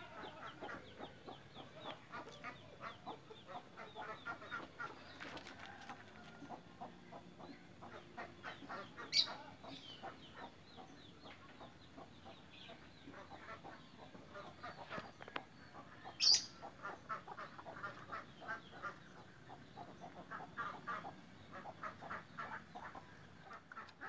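Birds clucking in rapid short notes, with two sharp loud clicks about nine and sixteen seconds in.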